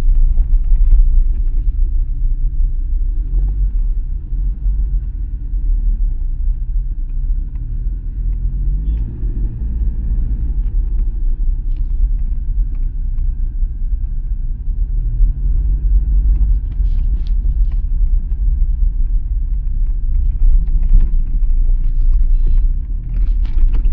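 Toyota Fortuner being driven over a rough, potholed road: a deep, steady road rumble, with the engine note rising and falling a few times and scattered light knocks and rattles. The suspension has just been rebuilt with new bushes and gives no clunking; the only rattle is a light one from the door rubbers.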